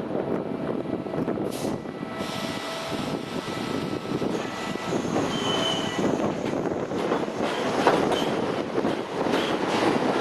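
R32 subway train running on the track with a steady rumble, a short wheel squeal about halfway through, and wheels clattering over rail joints more and more busily in the second half.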